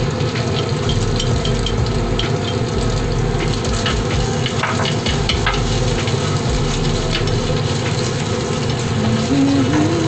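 Sliced ginger sizzling and crackling in a little hot oil in a pan while it is stirred, over the steady hum of a kitchen exhaust fan.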